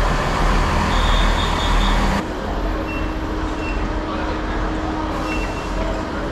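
Train standing at a station platform: a loud low rumble with a steady high whine. About two seconds in it cuts to a station concourse: a steady hum with a few short high beeps.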